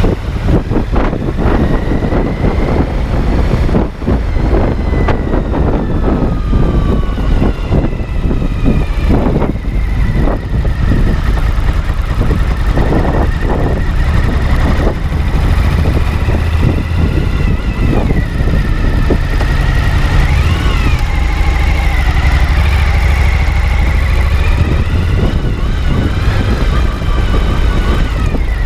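Suzuki V-Strom 1050XT's V-twin engine idling steadily, with scattered knocks and clicks over it.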